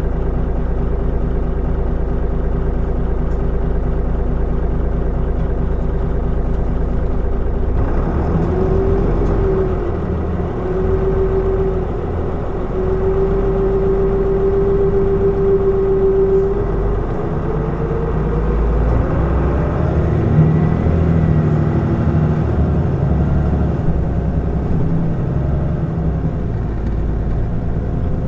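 Mitsubishi Fuso Aerostar city bus's diesel engine idling steadily. About eight seconds in the bus moves off with a steady whine, and the engine note then rises as it picks up speed.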